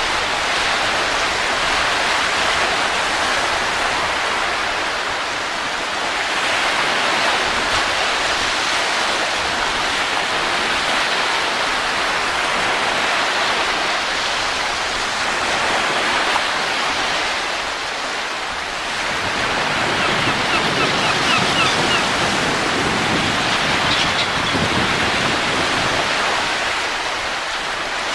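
Wind rushing steadily, swelling and easing in slow gusts every several seconds.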